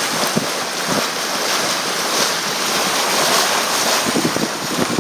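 Water rushing and splashing along the bow of a moving boat, with wind buffeting the microphone: a steady, loud rush of noise.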